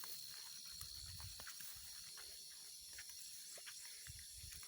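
Faint outdoor ambience: a steady high-pitched insect drone, with scattered short ticks and chirps and a patchy low wind rumble.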